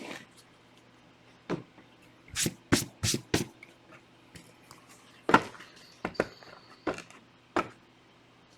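Trading cards and pack wrappers being handled on a table: a series of short, sharp snaps and taps, four of them close together a couple of seconds in, then single ones spaced under a second apart.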